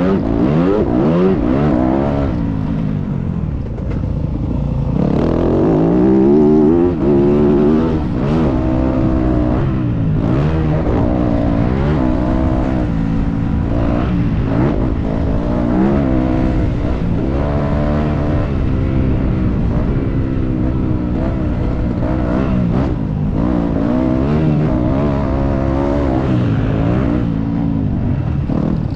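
Motocross dirt bike engine revving hard. Its pitch climbs and drops again every second or two as the throttle opens and closes and the gears change.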